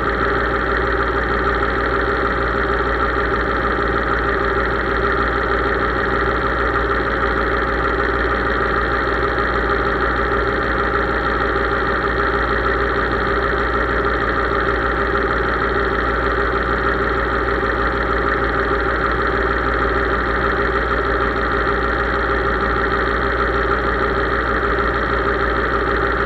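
Case IH 3220 tractor engine running at a steady speed, with no change in pitch or level.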